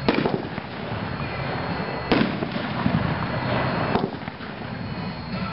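Winda 'Perfect Rounds' 9-shot consumer firework cake firing: two sharp bangs about two seconds apart, with a dense rumble of noise between them.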